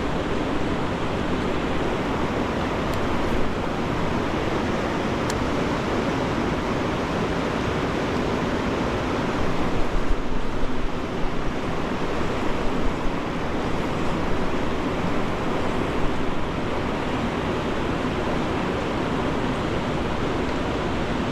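Steady rush of flowing river water, with uneven low buffeting between about ten and sixteen seconds in.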